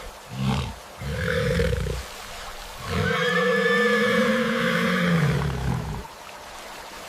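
A large animal roaring: two short calls, then one long roar that starts about three seconds in and fades out about three seconds later.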